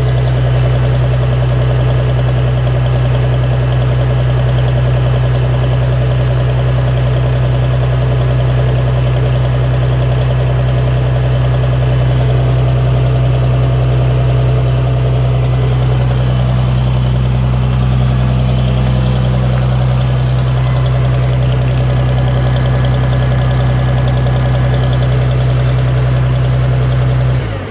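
IHC Farmall 460's gasoline six-cylinder engine running steadily after a cold start below freezing, then stopping abruptly near the end.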